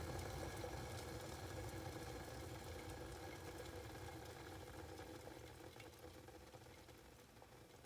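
Water in an electric kettle boiling, a steady rumbling bubbling that slowly dies away.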